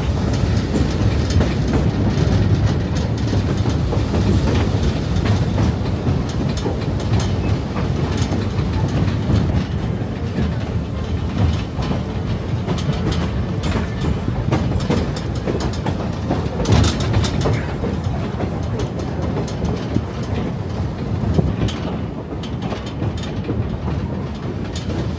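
Passenger train cars rolling along the track, heard from on board: a steady rumble of wheels on rail with irregular clicks and clacks as the wheels pass over rail joints.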